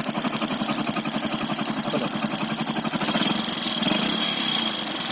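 Motorcycle engine running with a rapid, even knock from its piston, which has worn loose in the cylinder block (piston slap). The sound gets a little louder about three seconds in.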